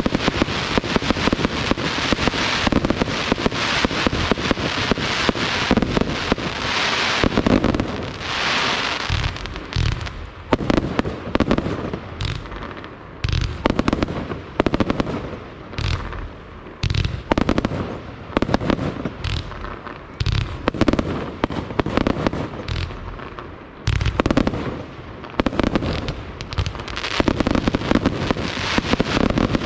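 Aerial fireworks display: a dense run of bangs and crackling, thinning in the middle into separate deep booms, then building again into a dense barrage near the end.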